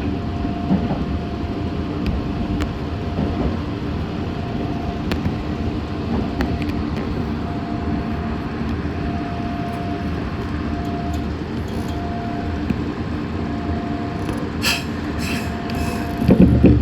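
Meitetsu 6500 series electric train running, heard from inside the car: a steady rumble with a mid-pitched hum that keeps cutting in and out. A few clicks come near the end, then a short loud thump just before it ends.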